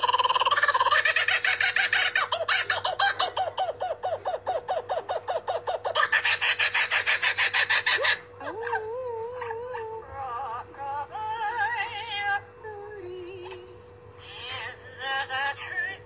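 Bird calls: a loud, fast run of repeated calls that stops abruptly about eight seconds in, followed by a quieter warbling song of wavering whistles.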